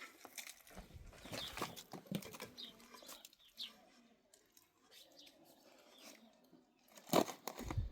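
Birds chirping now and then over scattered rustling and knocking, with one louder thump about seven seconds in.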